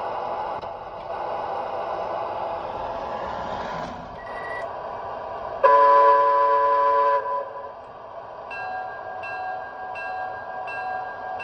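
Standard Gauge tinplate 408E electric toy locomotive with Proto-Sound 2 sound. A steady running hum comes first, then a loud horn blast of under two seconds about halfway through. After that its bell rings steadily, a stroke about every two-thirds of a second.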